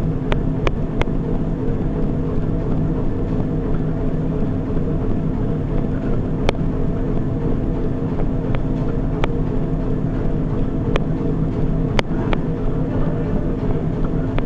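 Treadmill running with a steady motor and belt hum, with scattered sharp clicks at irregular moments.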